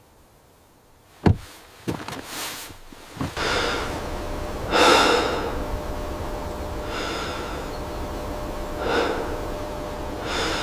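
A sharp knock, then a run of loud breathy snorts or gasps, one about every two seconds over a low rumble.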